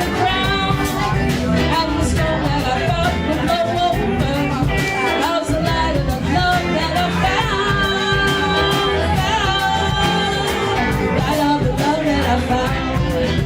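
Live rock band playing an instrumental passage of a song, with a steady rhythm section under pitched lead lines.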